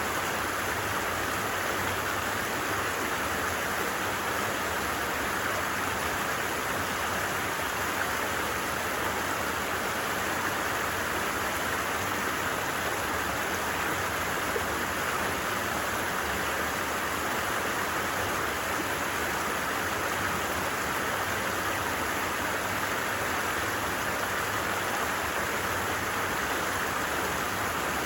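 Stream water running steadily, an even, unbroken rush.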